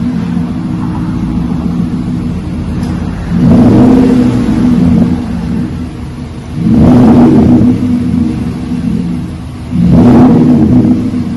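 Nissan Titan's 5.6-litre V8 idling through a dual exhaust with a Flowmaster 40 dual-in, dual-out muffler, factory catalytic converters retained. It is revved three times, each blip rising for about a second and settling back to idle.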